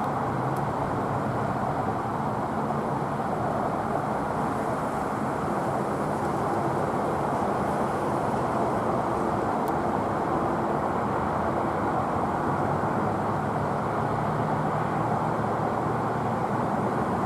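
Steady, even roar of a Boeing 777's jet engines in flight.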